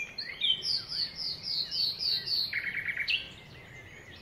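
Songbirds singing in woodland: a fast series of about nine repeated high, falling notes, then a short buzzy trill about two and a half seconds in, followed by scattered chirps.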